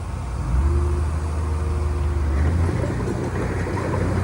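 Heavy diesel engine of earthmoving machinery running steadily, getting louder about half a second in, with a faint steady whine over it for about a second and a half.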